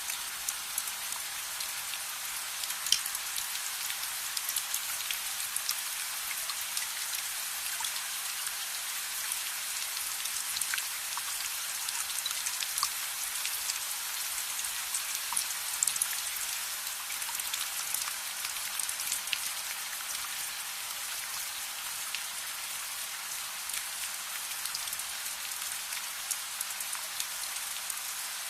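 Steady rain falling, a constant hiss with many small sharp drop ticks scattered through it.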